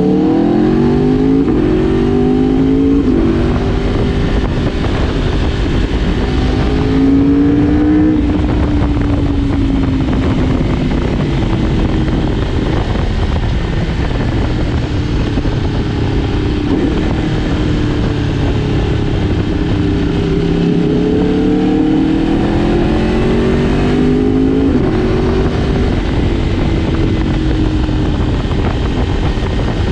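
Sport motorcycle engine pulling hard through the gears, its pitch climbing in quick steps with upshifts in the first few seconds, then running at cruising revs that rise and fall gently, over a steady rush of wind noise.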